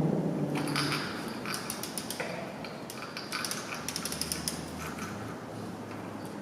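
Socket ratchet wrench clicking in quick runs as a bolt is turned, with light metallic clinks of the tool.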